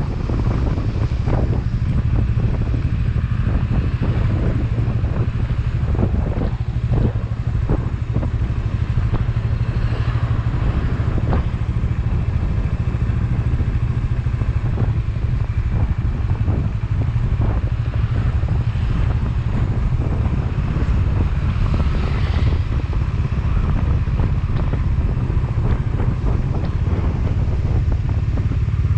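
Motorcycle engine running steadily on the move, with wind noise on the microphone and scattered short knocks and rattles.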